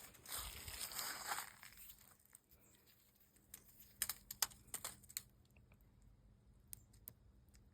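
Faint scratching and crackling for about a second and a half, as of flaking old paint being worked off a building's surface, then scattered light clicks and taps.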